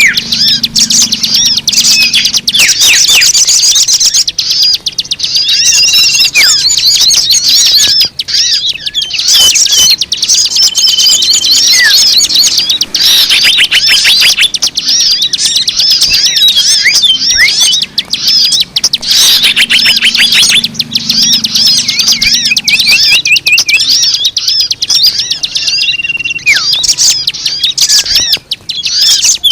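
A dense, loud chorus of many small birds chirping and twittering over one another, with rapid trills and a few short, steady whistled notes. It is a bird-lure (pemikat) recording meant to draw in wild birds.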